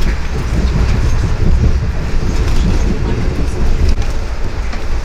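Amtrak passenger train running along the track, heard from inside the passenger car as a steady low rumble.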